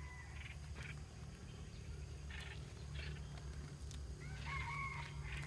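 Scattered faint bird calls over a low steady hum: several short high chirps, and a gliding call on two pitches about a second before the end.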